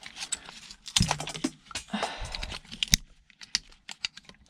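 Plastic and metal parts of a half-scrapped electrical item clicking and clattering as it is handled, in irregular sharp clicks with louder knocks about a second in and near three seconds.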